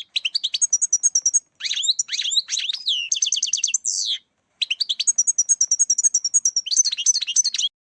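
European goldfinch song: a fast, twittering run of chirps and liquid trills, broken by two short pauses and cutting off abruptly near the end.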